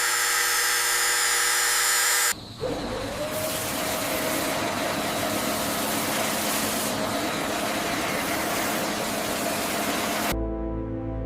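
Workshop machinery noise: a dense hiss, then after an abrupt cut about two seconds in, a motor whining up to a steady pitch under heavy hissing. It gives way to music near the end.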